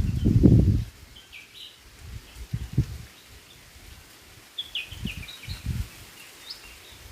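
White-throated fantail calling in short high chirps, one bout a second in and a longer one past the middle. Under it are low rumbling thumps, loudest at the start.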